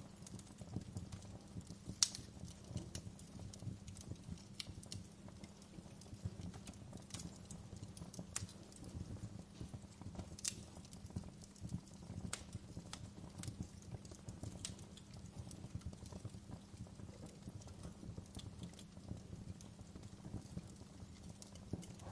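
Wood fire crackling: irregular sharp pops and snaps over a low, steady rumble of burning, with the loudest pop about two seconds in.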